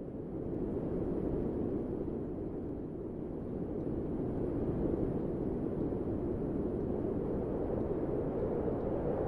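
Steady low wind rushing, with no gusts or other sounds. It swells over the first second, then rises and eases slowly.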